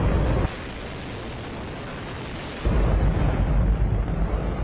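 Hydrogen-oxygen rocket engine test-firing: a continuous, very loud, deep rushing noise, heaviest in the bass. From about half a second in to nearly three seconds in it drops to a quieter, thinner hiss, then comes back at full strength.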